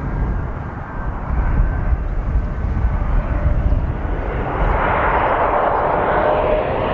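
Jet airliner engine noise over a steady low rumble, with a broad rush that swells and grows louder from about four and a half seconds in.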